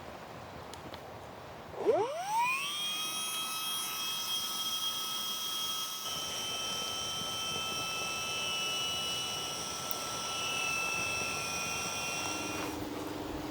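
Electric air pump switching on about two seconds in: its whine climbs quickly in pitch, then runs steady. Near the end it gives way to a lower steady hum.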